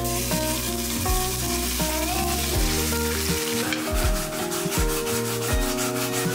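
Grated potato batter sizzling as it goes into hot oil in a frying pan, then, about four seconds in, a wooden spatula scraping and spreading it in quick repeated strokes. Background music plays underneath.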